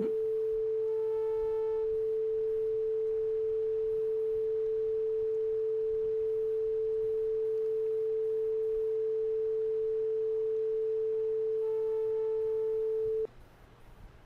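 A single pure electronic tone, one steady unchanging pitch held for about thirteen seconds, then cut off suddenly near the end. A fainter, higher tone sounds with it briefly about a second in and again shortly before the cutoff.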